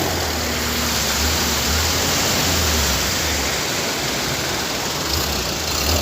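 A steady rushing noise with a low vehicle engine hum running beneath it.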